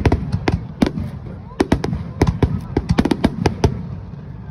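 Fireworks display: a rapid, irregular string of sharp bangs from shells bursting, several a second, thinning a little near the end.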